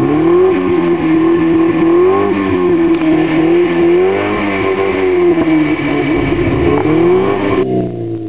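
Ford Orion 1.3's four-cylinder engine and exhaust under load, its pitch rising and falling repeatedly as the throttle is worked. The sound drops away abruptly near the end.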